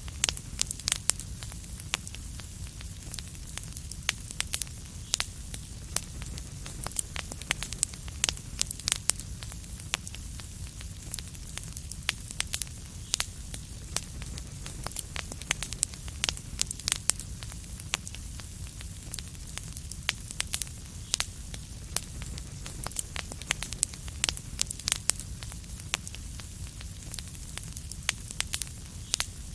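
Fireplace fire crackling steadily: many sharp irregular pops and snaps over a low continuous rumble of burning.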